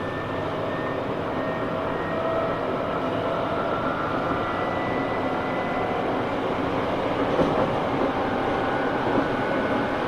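Steady running noise inside a Tobu 9000 series armature-chopper electric train car (9206): wheel and rail noise with a faint, slowly shifting traction-motor whine. This car's motor gives an abnormal sound, unlike the normal 9000 series, as if a different motor had been fitted. There are two small knocks near the end.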